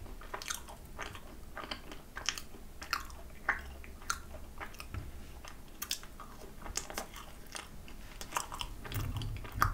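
Close-up chewing of a thick-filled macaron: soft, moist smacks and small crisp clicks of the shell, irregular, a few a second.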